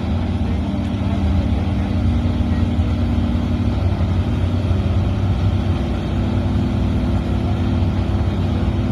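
A car engine idling steadily, its pitch shifting slightly a few times.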